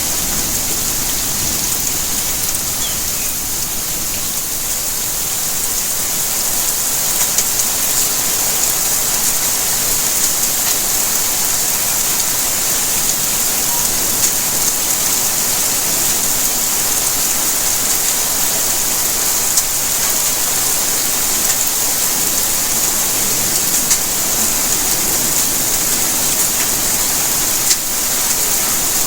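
Steady rainfall, an even hiss of rain with scattered individual drops ticking on surfaces.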